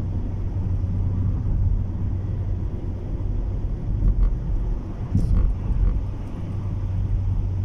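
Car cabin noise while driving in strong wind: a steady low rumble of road and wind against the car, with a faint click or two about four and five seconds in.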